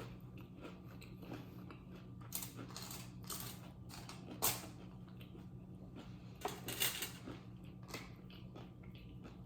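Close-miked eating: scattered crunches and mouth clicks of someone chewing food, with the loudest bites about four and a half and seven seconds in, over a steady low hum.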